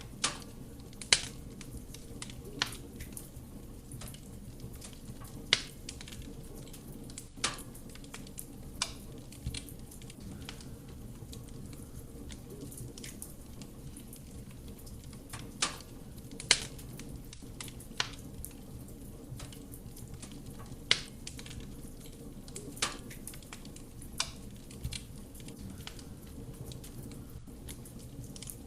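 Wood fire burning in a fireplace: a steady low rush of flame with sharp, irregular crackles and pops from the burning wood, about a dozen scattered through.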